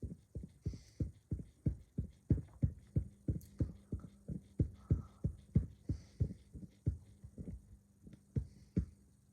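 Steady, evenly spaced low thumping, about three beats a second, over a faint steady hum.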